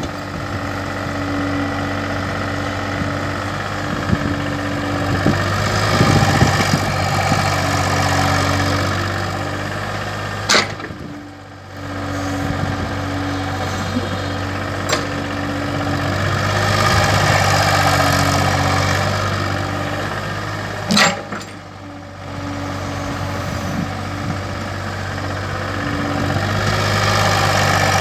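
Kobelco hydraulic excavator's diesel engine running steadily, swelling and easing in loudness as it works. The sound drops out briefly twice, about 11 and 21 seconds in, each time just after a sharp click.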